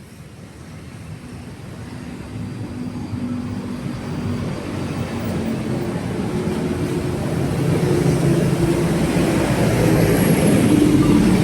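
City street traffic: vehicle engines running with a low rumble over a noisy wash, growing steadily louder.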